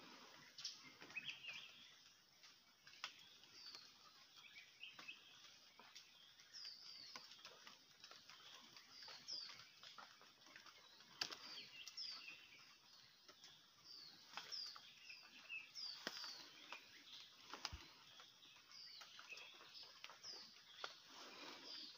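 Small birds chirping faintly: many short, high calls coming in loose clusters, with a few light clicks between them.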